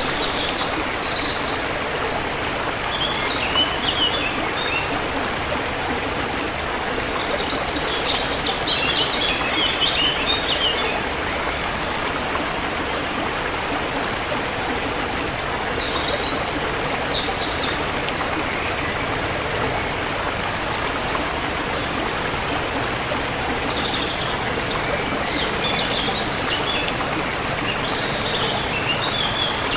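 Forest river water flowing with a steady rush, while birds chirp in short spells of quick high notes four times: near the start, about a third of the way in, just past the middle and through the last few seconds.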